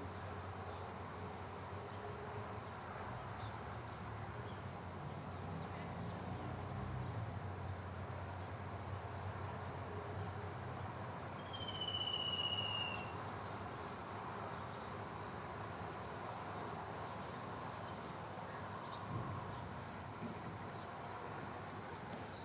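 Outdoor bird ambience over a steady background hiss, with one songbird call about halfway through: a quick run of short falling notes that ends in a longer high note.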